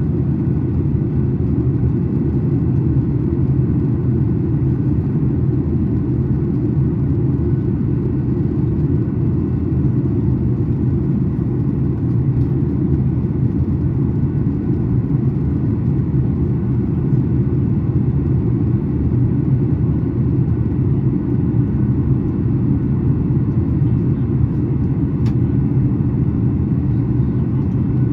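Steady low cabin rumble of a Boeing 737 MAX 8 airliner: its CFM LEAP-1B turbofans and the airflow over the fuselage, heard from inside the cabin, with no change in level or pitch.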